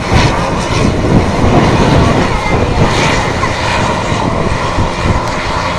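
Loud, steady roar of military aircraft engines close by, a dense rumble from low to high pitch.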